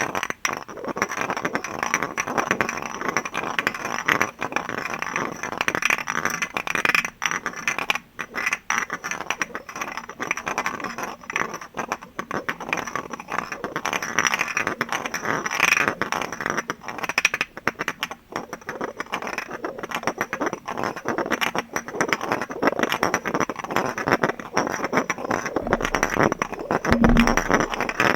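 Fast, dense tapping and scraping on glass objects, many small clicks running together without pause. A short low tone sounds once near the end.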